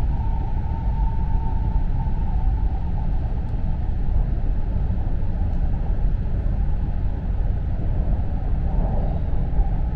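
Running noise of an E4 series Max double-decker Shinkansen heard inside the lower-deck cabin: a steady low rumble, with a faint whine that fades in and out.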